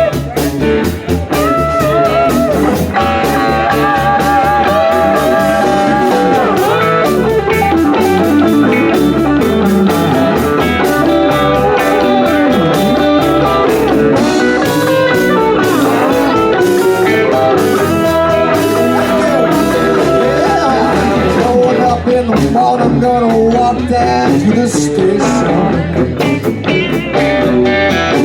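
Live blues-rock band playing, with guitar to the fore over a steady drum beat and no vocals.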